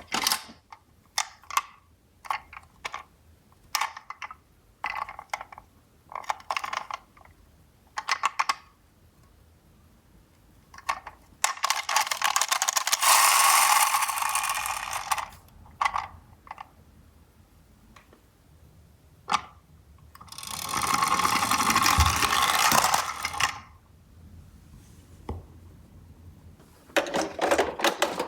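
Toy minicars clicking and clattering as they are handled, then twice a longer rattling run of small wheels rolling down a cardboard slope, each about three seconds.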